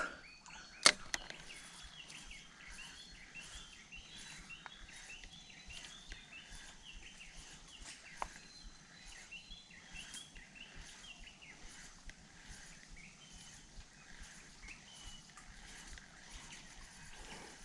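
Faint birdsong: many short, high chirps repeating through the quiet. A single sharp click comes about a second in.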